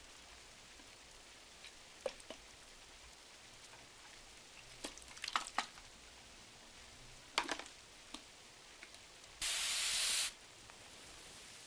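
Steady soft hiss of rain on a window, with scattered crackles and pops from a wood-burning fireplace and two short clusters of crackling in the middle. Near the end, a louder swish of about a second: a page being turned.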